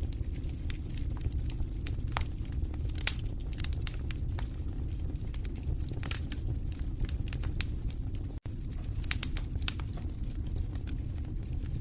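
Wood fire burning in a fireplace: many sharp crackles and pops over a steady low rumble of the flames. The sound cuts out for an instant about eight seconds in.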